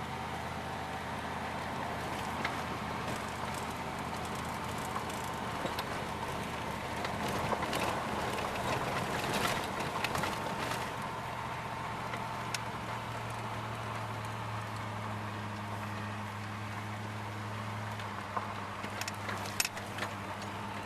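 1992 Dodge Dakota pickup running on wood gas, driving with a steady engine drone that rises slightly in pitch about two-thirds of the way through. Scattered rattles and knocks from the truck and its load come in the middle and again near the end.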